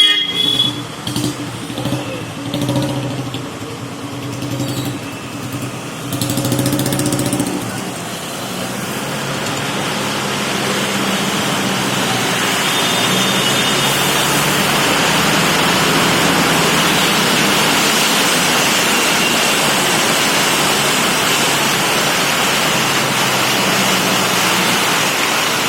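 Road traffic with running engines and a short horn at the start, giving way about eight seconds in to heavy rain falling as a steady, even hiss.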